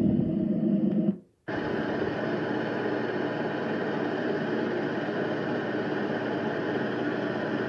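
White noise machine playing its recorded sounds. A steady fan-type sound cuts off about a second in, and after a brief silence a new steady machine drone with a hum through it starts, which sounds like a generator.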